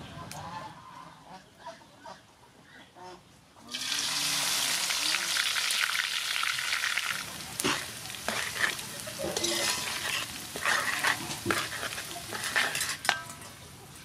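Shredded lemongrass stalks deep-frying in hot oil in a wok: a loud sizzle starts suddenly about four seconds in and keeps going. Metal tongs and a slotted spatula click against the wok several times as the lemongrass is turned.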